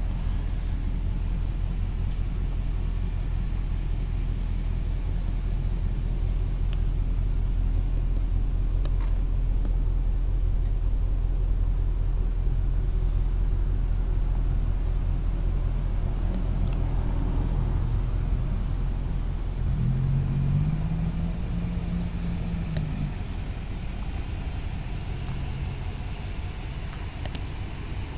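Engine of a carpet-cleaning truck rig running steadily with a low rumble; about twenty seconds in a pitched tone rises briefly and holds for a few seconds before dropping away.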